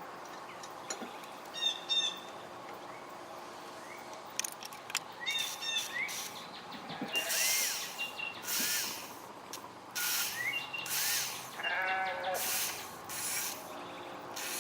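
Small birds chirping in the background, short rising-and-falling chirps scattered throughout, with several brief bursts of scraping and handling noise from work at the bench in the middle of the stretch.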